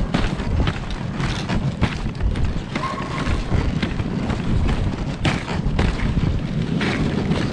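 Moving dog sled: a steady low rumble with repeated knocks and thumps as the sled bumps along the trail.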